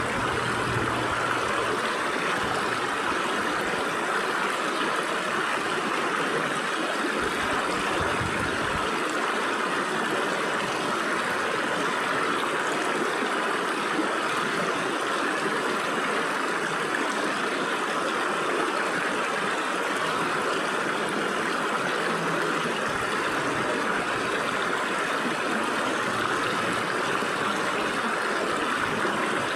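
Stream water rushing and splashing steadily through the gaps between rocks, an even hiss-like flow with no pauses.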